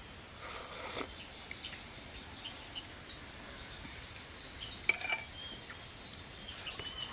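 A couple of light clinks of cutlery against a dish, the sharpest about five seconds in, over steady outdoor background with short bird chirps in the second half.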